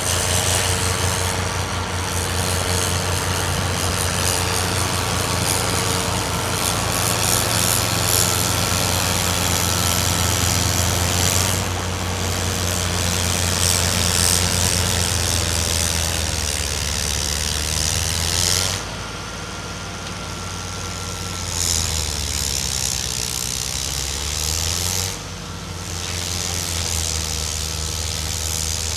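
Heavy engine of snow-clearing machinery running steadily with a rushing hiss over it. About two-thirds of the way through the hiss drops out and the engine note falls lower for a few seconds, then picks back up near the end.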